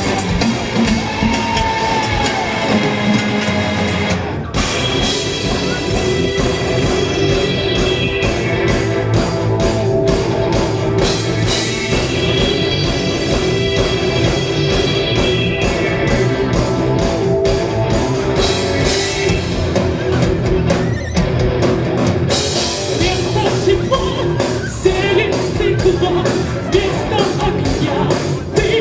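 Live rock band playing with a singer over distorted band sound and a steady drum beat.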